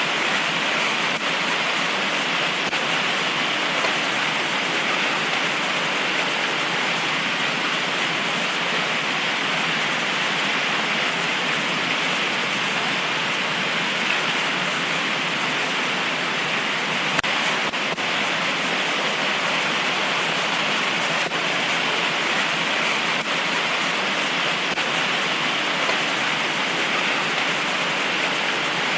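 Heavy tropical rain pouring steadily, a dense even hiss with no let-up.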